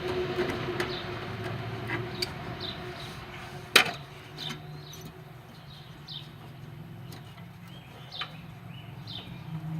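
Scattered light clicks of hand tools working on a plug wire in an engine bay, with one sharp knock a little under four seconds in. A series of short, high, falling chirps follows in the second half.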